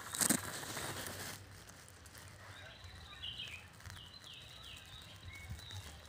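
Leaves and branches rustling for about the first second and a half, then a small bird chirping in a run of short, high notes.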